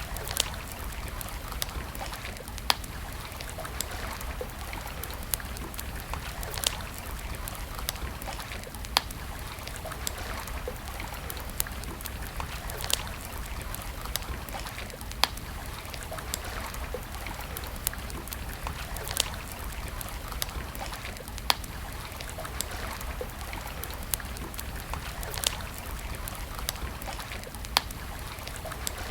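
Wood campfire crackling, with sharp single pops every second or two over a steady hiss.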